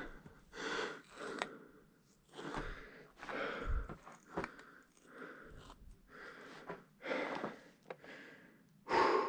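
A person breathing hard in a series of puffs about a second apart, with a few short sharp clicks in between.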